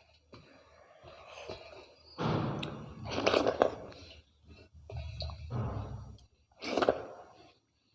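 Close-miked chewing of rice and mutton curry: wet mouth sounds and lip smacks in several bursts, loudest a few seconds in.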